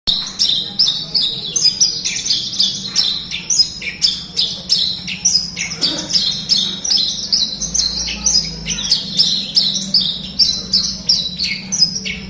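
Javan bush lark (branjangan) in full song: a fast, unbroken run of high chirps, trills and short whistles, with a faint steady hum underneath.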